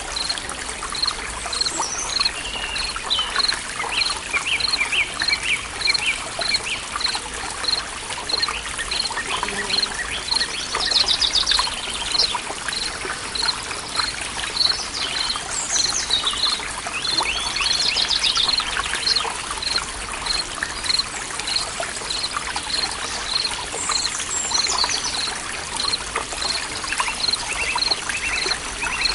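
Forest ambience: water trickling steadily while birds call. One bird repeats a short high chirp in a steady run, about one and a half chirps a second, and other birds add scattered calls and trills.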